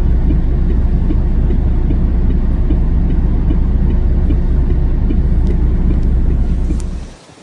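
Steady low rumble of a road vehicle driving, with faint evenly spaced ticks on top, cutting off suddenly about seven seconds in.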